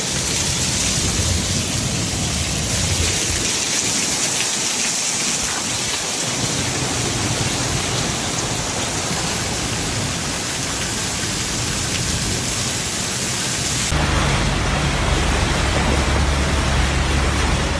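Heavy rain pouring down as a steady hiss. About fourteen seconds in, the sound changes abruptly and a deep low rumble comes in under the rain.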